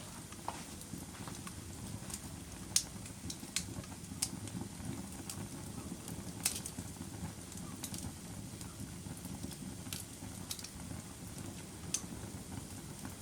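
Wood fire burning in a fireplace: a steady low rush of flames with scattered sharp crackles and pops, the loudest a little under 3 seconds in.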